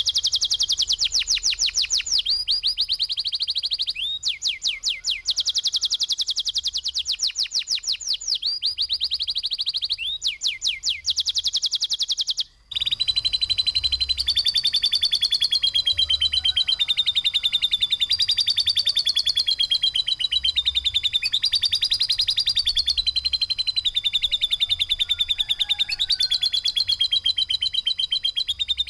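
Songbird song on a bird-training recording: rough, rapid-fire runs of repeated sharp high notes. After a brief dropout near the middle it changes to one continuous fast trill that wavers around a single pitch.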